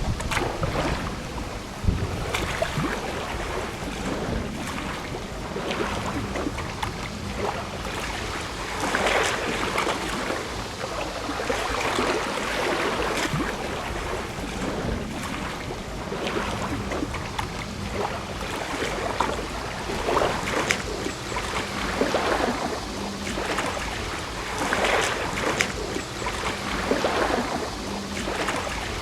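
Small waves lapping and splashing at the water's edge, swelling every few seconds, with wind on the microphone.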